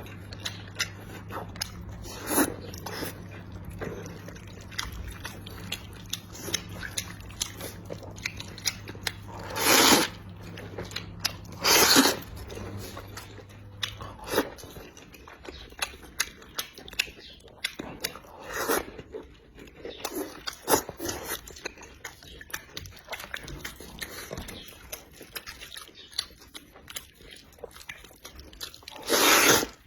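Close-miked chewing, biting and crunching of food, with many small wet clicks and a few louder bursts.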